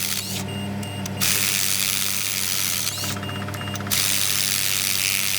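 Power tool running in on-and-off spells of one to two seconds, a bright hissing noise, over a steady low mechanical hum.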